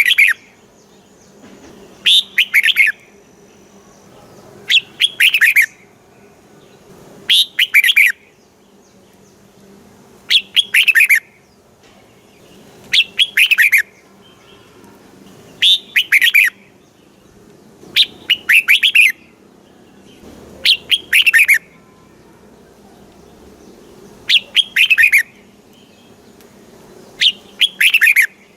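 Red-whiskered bulbul song: one short phrase of quick, downward-sweeping notes, repeated about every three seconds with the same shape each time. A faint steady low hum runs underneath.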